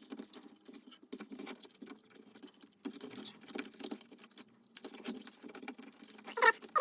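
Small irregular clicks and rustling from hands working a lawn mower's recoil pull starter, winding its spring and cord by hand.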